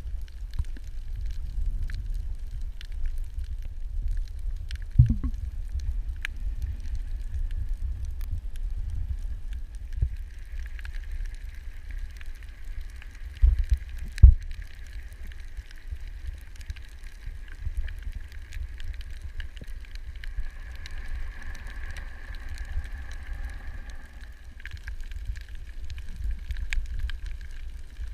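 Underwater ambience through a camera housing: a steady low rumble of water moving against the housing, with scattered faint clicks. There are a few sharp knocks, the loudest about five seconds in and twice around fourteen seconds in.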